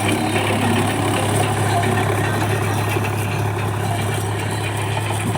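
Tractor's diesel engine running steadily, with a constant low hum.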